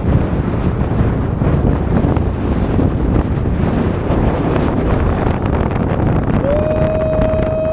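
Gale-force wind buffeting the microphone: a dense, howling rumble strongest in the low end, which sounds like a jet fighter engine strapped to the ears. About six and a half seconds in, a steady whistling tone comes in and holds.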